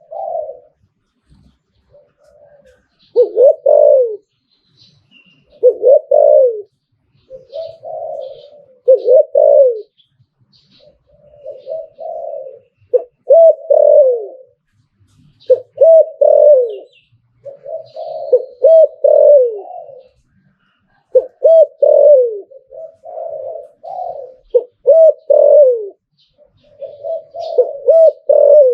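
Spotted dove cooing over and over in the rhythmic song that dove keepers breed for. It sings clusters of low coos, many ending in a falling note, every two to three seconds. Faint high chirps from other small birds sound now and then.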